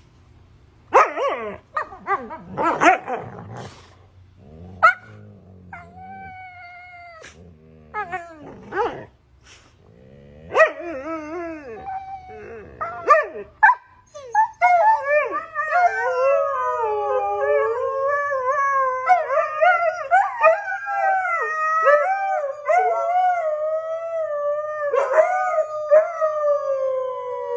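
Dog barking and yelping in short bursts, then, about halfway through, a long wavering howl that goes on without a break.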